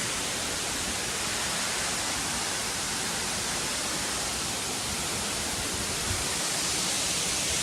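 Waterfall, a steady rushing noise of falling water, with a heavy flow of water going over the falls.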